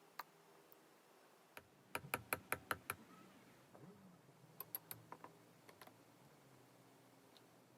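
A quick run of about six sharp clicks or taps in a second, followed a couple of seconds later by a looser group of clicks, with a few single ticks around them.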